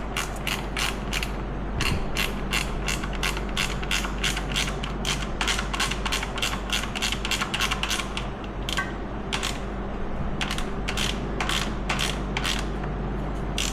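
Hand ratchet wrench clicking steadily, about four clicks a second as the handle is swung back, with a short pause a little past the middle.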